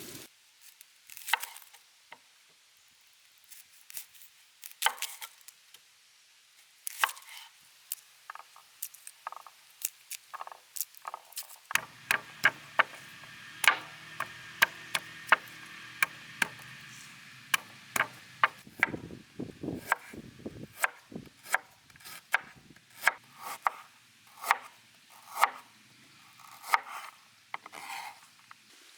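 Knife chopping food on a cutting board: scattered, irregular strikes at first, then steady quick chops about two a second from about halfway through.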